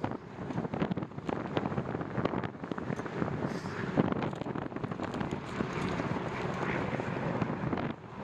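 Wind buffeting the microphone of a camera carried on a bicycle riding into a headwind: a rushing, gusting noise full of short crackles.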